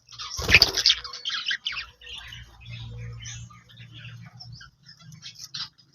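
Budgerigars chattering, with many quick chirps and warbles, and a loud burst about half a second in.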